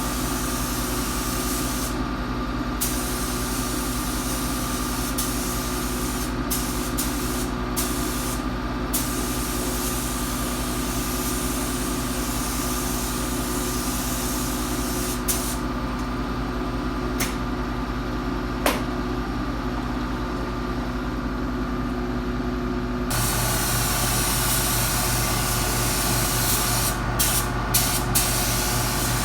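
Automotive paint spray gun hissing in bursts as the trigger is pulled and released, with short pauses between passes. A steady machine hum runs underneath and shifts in tone about three-quarters of the way through.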